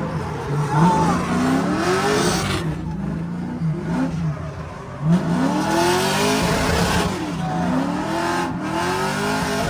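LS3 6.2-litre V8 of a drift car revving up and down over and over through a drift run, heard from inside the car, with bursts of tyre noise.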